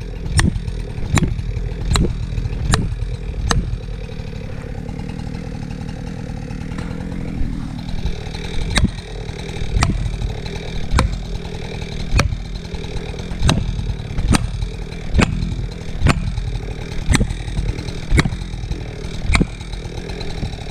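Repeated blows driving a felling wedge into a tree cut, five at first, then after a pause of a few seconds about one a second to the end, over a Husqvarna chainsaw idling steadily.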